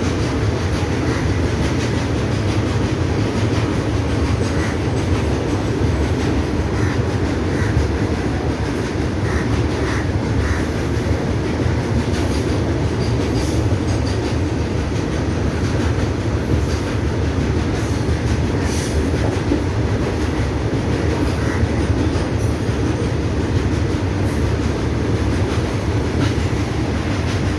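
Train running on the rails: a steady, loud rumble of wheels and carriages, with brief high wheel squeals scattered through it.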